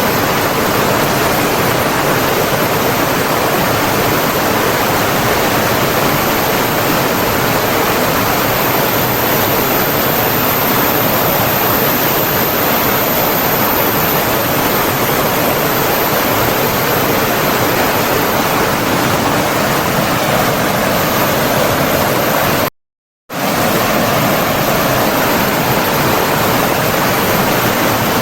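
Steady rush of running water, a stream or waterfall. Near the end it drops out to silence for about half a second, then resumes unchanged.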